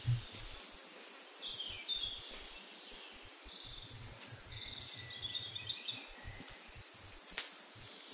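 Forest ambience with a songbird singing in short, high chirping and warbling phrases, then a single sharp knock near the end.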